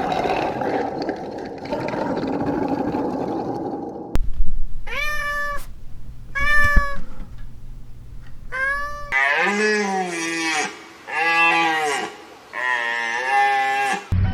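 Cat meowing: three short meows, then after a cut three longer, lower meows, preceded by a few seconds of noisy background.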